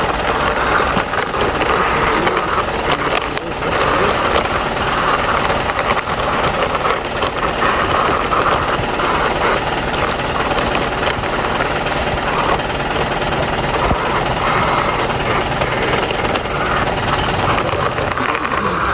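A small motor running steadily with a dense, fast rattle, dipping briefly about three and a half seconds in.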